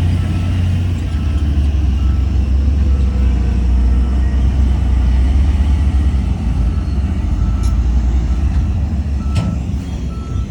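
Heavy diesel earthmoving machinery running with a deep, steady rumble, while a reversing alarm beeps at an even pace in the background and grows clearer in the second half. Two sharp clicks sound near the end.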